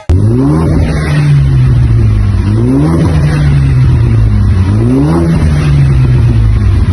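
Ford Mustang's 2.3-litre turbocharged four-cylinder engine revved three times through its exhaust, each rev rising, holding briefly, then falling back to idle.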